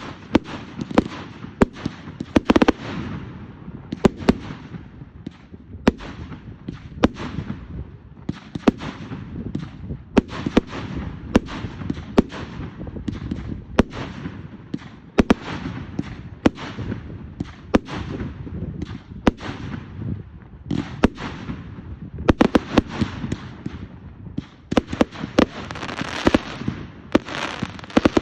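Fireworks going off continuously: frequent sharp bangs and pops, several a second at times, over a rumble of further explosions, with a denser spell of crackling near the end.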